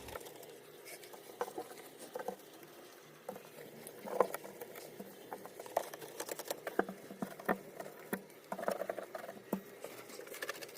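Mesh net bag scrubbing the wet plastic inside of a refrigerator: faint, irregular scratches and clicks.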